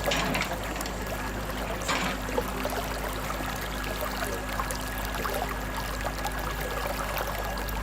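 Water running and trickling steadily, with a faint steady hum underneath.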